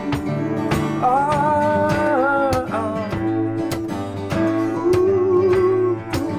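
Instrumental passage of a folk song: a strummed acoustic guitar keeps a steady rhythm while a bowed cello holds long notes over it.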